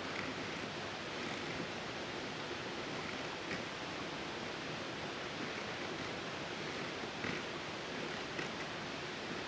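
Steady, even hiss of outdoor background noise, with a few faint ticks scattered through it.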